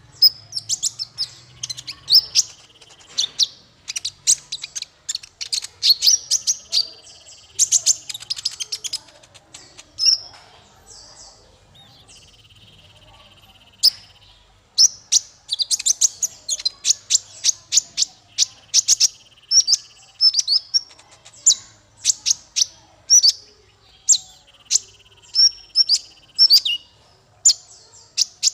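Small songbird singing in rapid bursts of sharp, high chips and clicks. These are broken by a buzzy trill held for a second or two, which returns several times.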